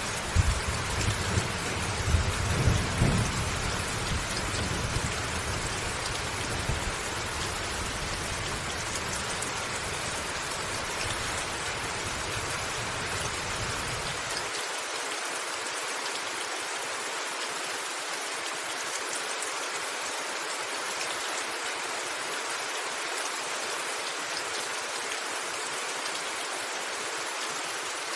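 Steady rain on a rooftop with rumbling thunder in the first few seconds, loudest about three seconds in. About halfway through, the low rumble stops abruptly, leaving an even rain hiss.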